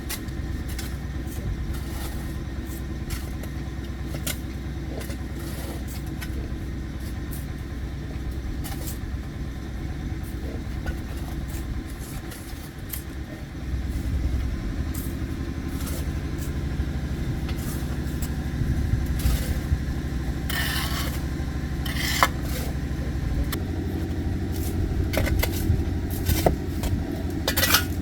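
An engine running steadily, stepping up in speed and loudness about 13 seconds in and again about 23 seconds in. Scattered metallic clicks and scrapes come through in the last third.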